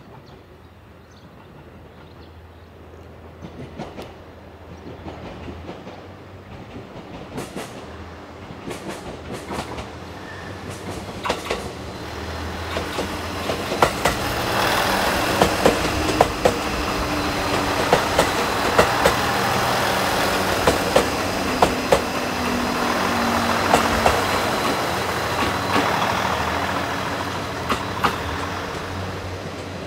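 Diesel train coming in and running past, its sound building steadily over the first half. Its wheels click in pairs over the rail joints the whole way.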